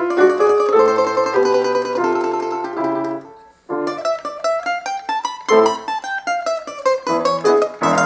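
Plucked string instrument playing a folk melody over piano accompaniment. About three and a half seconds in it breaks off briefly, then resumes with fast repeated picked notes in a line that rises and falls.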